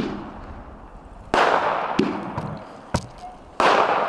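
Consumer fireworks going off: sharp bangs and sudden hissing bursts that fade over about a second, a shot every second or two.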